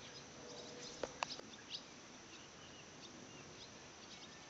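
Faint, scattered bird chirps over quiet lakeside ambience at dusk, with a sharp click about a second in.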